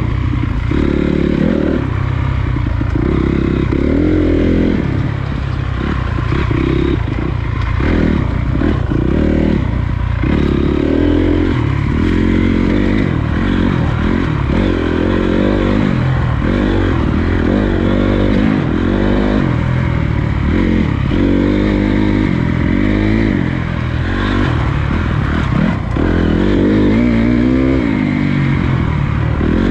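Honda CRF250 dirt bike's single-cylinder four-stroke engine being ridden, its revs rising and falling over and over with throttle and gear changes.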